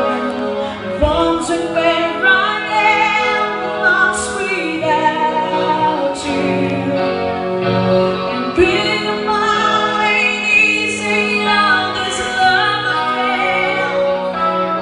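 Live rock band playing a song, a sustained melodic lead line carried over the band, with cymbal crashes every couple of seconds.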